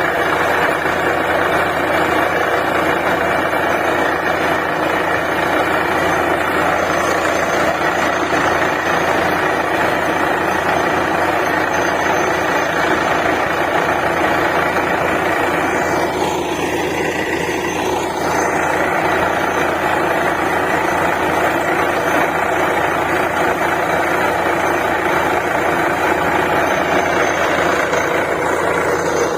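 DTH borewell drilling rig running steadily: a loud, dense, unbroken machine noise from its engine, with a brief change for about two seconds past the middle.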